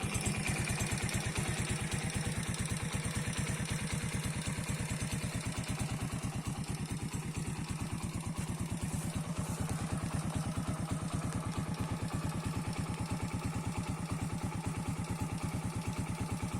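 Racer 125 motorcycle's 125 cc single-cylinder engine idling steadily, with an even, unchanging beat and no revving.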